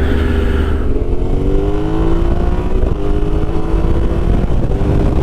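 Yamaha Ténéré 700's parallel-twin engine running under way, its pitch climbing slowly as the bike accelerates. Wind rumbles low on the microphone.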